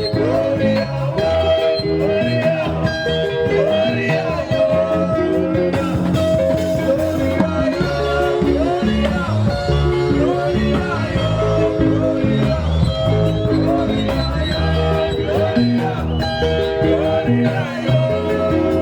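A live band playing: electric guitar lines over bass and drums, with continuous dense music and no pause.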